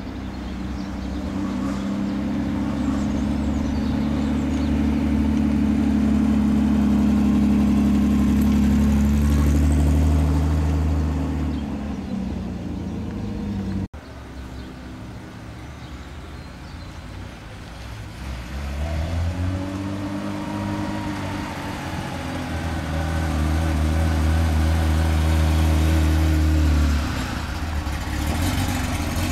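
Classic car engines running as cars pull away. One engine holds a steady note that falls in pitch about eleven seconds in. After a cut, a Porsche 911's engine revs up, holds a steady note and drops off near the end.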